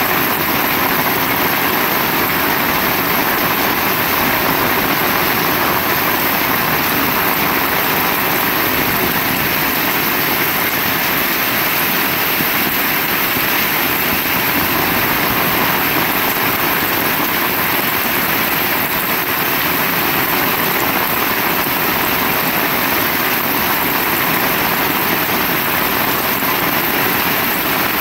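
Heavy rain falling, a steady, dense hiss that doesn't change.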